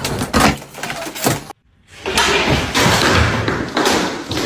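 Thuds and knocks, then a long loud clattering crash from about two seconds in: a cat falling through something and bringing things down with it.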